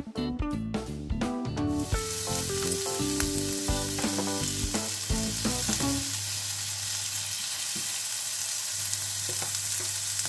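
Sesame bagel with egg and ham frying in a nonstick pan: a steady sizzle that sets in about two seconds in, with a few light fork taps against the food. Background music plays over it and stops about six seconds in.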